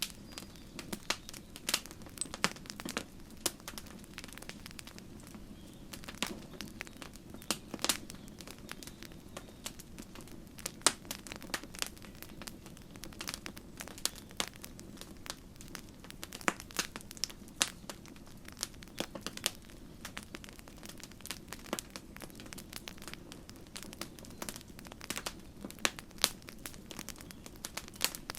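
Wood campfire crackling, with irregular sharp pops and snaps over a steady low rustle of the flames.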